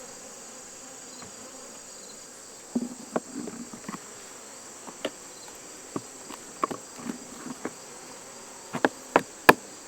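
A steady high-pitched late-summer insect chorus, with honeybees buzzing close by now and then. Sharp clicks and knocks of the hive's wooden boxes and frames being handled come from about three seconds in and grow louder and more frequent near the end.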